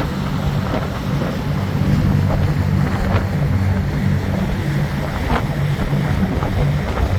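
Tour boat's engine running underway, a steady low drone, with wind buffeting the microphone and water rushing past.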